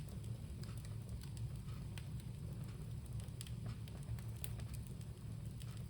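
Bonfire burning, with scattered sharp crackles and pops over a steady low rumble.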